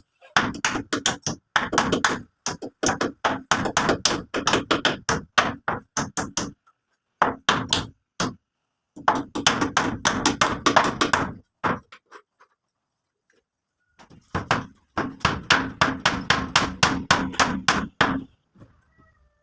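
Rapid, repeated hammer strikes, several a second, in long runs broken by short pauses, with a longer pause about two-thirds of the way through.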